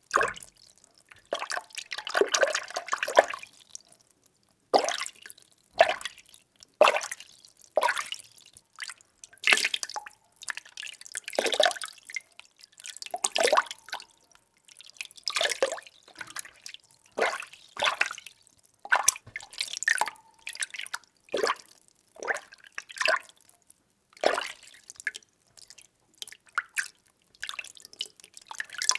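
Water being stirred, sloshing and splashing in short, irregular strokes about once a second with brief quiet gaps between them.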